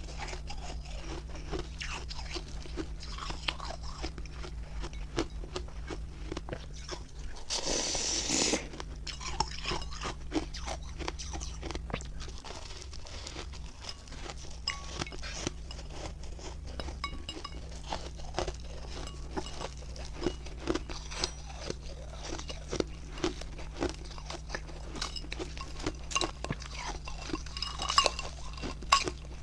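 Close-miked biting and chewing of refrozen ice made with milk and matcha powder: a steady run of crisp, irregular crunches and cracks, with a longer, denser crunch about eight seconds in.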